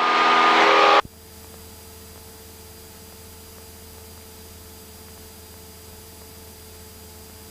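Steady low hum and hiss of a Cessna 172's cockpit intercom audio feed, with a few faint steady tones. For about the first second a louder burst of hiss with pitched tones plays, then cuts off abruptly.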